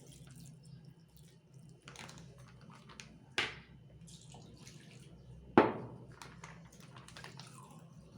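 Kitchen containers and utensils being handled while ingredients are prepared: a few sharp knocks, the loudest about three and a half and five and a half seconds in, over a low steady hum.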